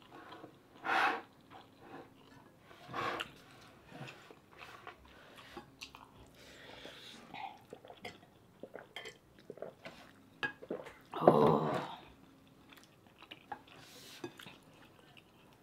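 Close-miked chewing of mouthfuls of stewed pork and rice, with many small clicks and short wet mouth sounds. A louder burst comes about eleven seconds in.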